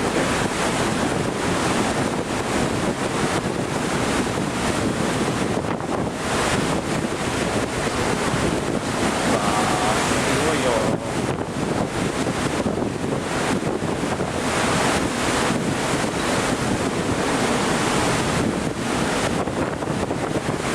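Typhoon-force wind blowing in gusts, with the wind buffeting the microphone.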